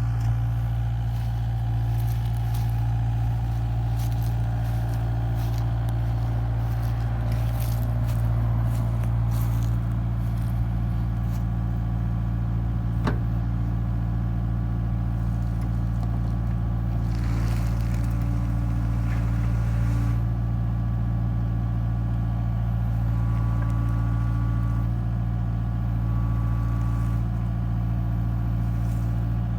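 Kubota KX057-4 excavator's diesel engine running steadily at low RPM while it digs, with a few faint clicks and scrapes over it.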